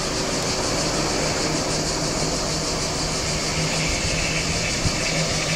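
SNCF TGV high-speed train approaching along the electrified mainline: a steady rumble and hiss with a faint low hum.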